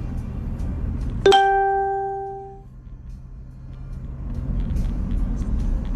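A single clear pitched note starts sharply about a second in and dies away within about a second and a half, over a low steady rumble.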